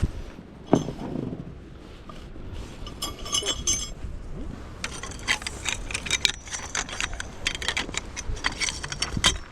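Metal camping gear being handled and packed away: a knock, then light metallic clinking and jangling that gets busier in the second half.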